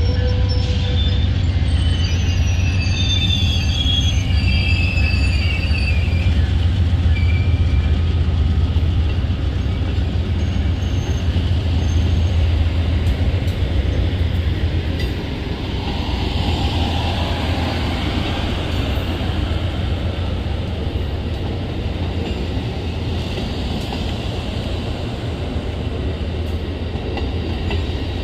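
Train rolling past on the rails with a steady low rumble. High wheel squeal sounds over it for the first few seconds, and the rumble eases a little about halfway through.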